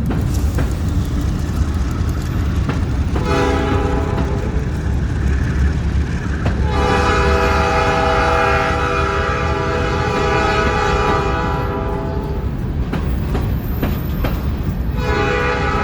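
Georgia Central Railway train's horn sounding several times over the steady low rumble of the moving train: a short blast about three seconds in, a long blast from about seven to eleven seconds, and another beginning near the end.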